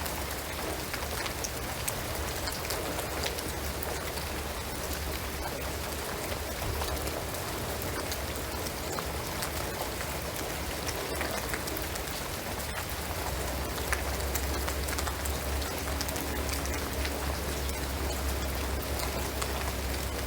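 Steady rain falling on a shingled roof and pine trees, a dense patter with many fine scattered drop ticks over a low rumble.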